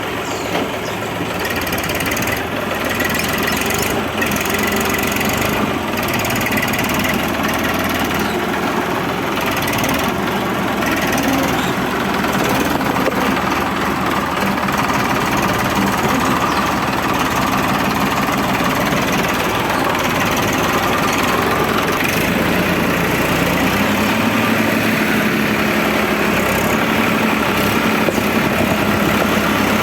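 A small motor running steadily, with a steady low hum coming in about three-quarters of the way through.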